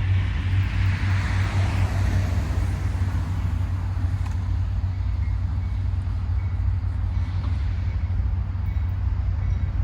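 CSX GE ES40DC diesel locomotive running past between horn blasts: a steady low drone under a hiss that swells in the first two seconds and then fades.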